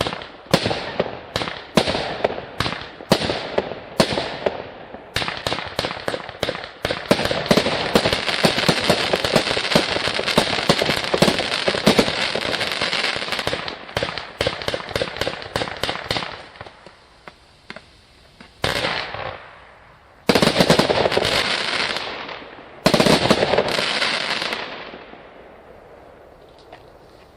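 Consumer firework cake (200-shot VIP 200) firing a rapid barrage of shots with crackling, which thins out after about 16 seconds. Three last loud bursts follow, each with a crackling tail, before it dies away near the end.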